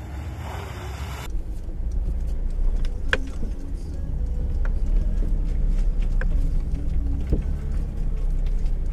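Stock Jeep Wrangler JK engine running slowly and steadily, heard from the hood as the Jeep crawls toward a rocky sand climb. It makes a low rumble that grows slightly louder, with a few sharp clicks about a second and a half apart.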